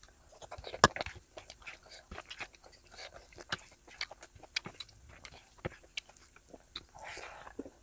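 Close-miked chewing of a mouthful of biryani rice and meat, with many small wet mouth clicks and lip smacks; the sharpest smack comes about a second in.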